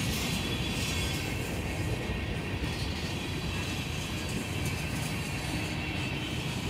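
CSX freight train's tank cars and covered hoppers rolling slowly past: a steady low rumble of steel wheels on the rails.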